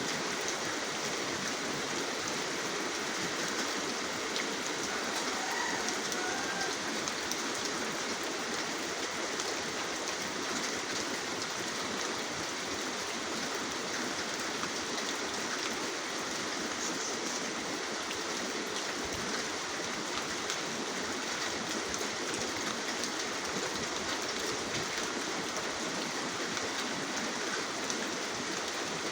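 Steady rain falling, an even hiss of many drops with fine pattering.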